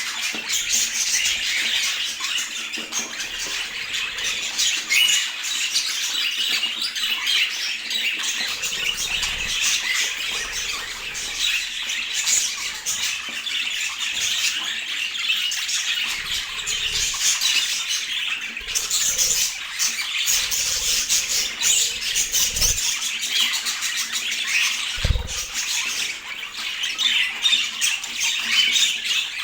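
Budgerigars chattering and warbling continuously in fast, scratchy chirps, with two soft low thumps late on.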